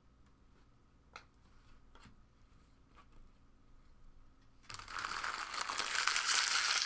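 A few light clicks of cards being handled, then, about four and a half seconds in, a loud crinkling and tearing as a foil trading-card pack wrapper is ripped open.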